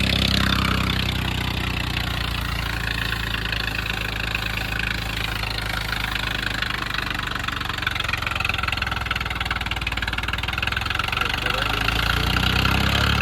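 Swaraj tractor's diesel engine running steadily, its note swelling slightly near the end.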